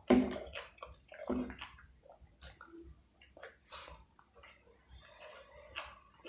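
Close-up wet chewing and mouth sounds of someone eating tandoori chicken and fried rice, with two louder smacks in the first second and a half, then softer clicks and smacking.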